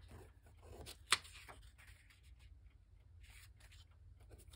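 Paper tags and cards being handled and shuffled, soft rustles with a sharp tap about a second in, over a faint steady low hum.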